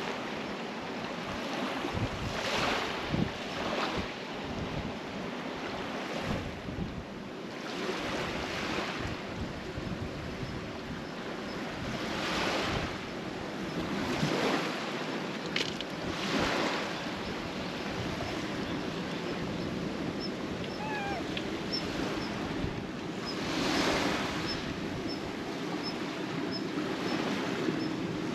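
Sea waves washing against a concrete tetrapod breakwater, with a louder surge every few seconds over a steady wash.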